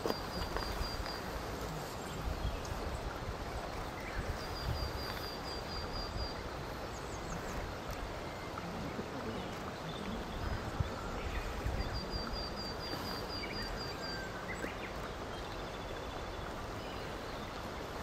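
Steady outdoor background noise with a small bird's high, thin trill of rapid, even notes, heard three times.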